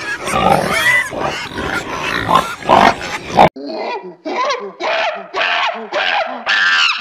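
A herd of pigs grunting and squealing over one another, cut off abruptly about halfway through. Then a monkey's short, high-pitched calls, about two a second, getting louder toward the end.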